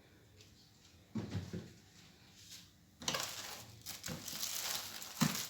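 Household items being handled: a short knock and rustle about a second in, then steadier rustling with several light knocks from about three seconds.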